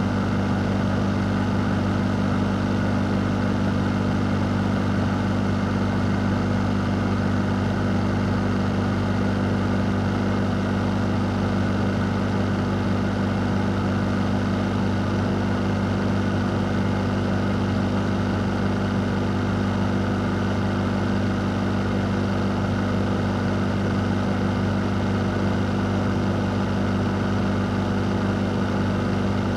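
Electric fan running at a constant speed: a steady low hum under an even rush of air.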